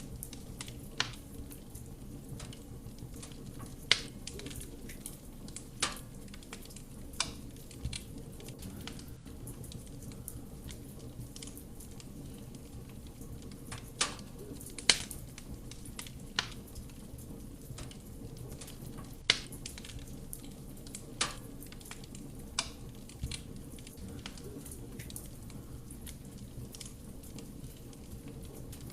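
Wood fire burning in a fireplace: sharp crackles and pops from the burning wood at irregular intervals, about ten loud ones, over the steady low sound of the flames.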